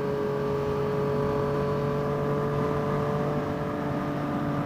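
2014 Yamaha FZ-09's 847 cc inline three-cylinder engine running at steady riding revs, its note holding nearly level and easing down slightly, with wind noise.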